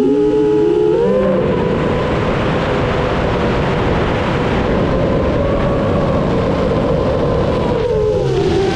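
7-inch FPV quadcopter's motors and propellers whining under a rush of noise. The pitch rises about a second in, holds steady while flying, and drops near the end as the throttle eases.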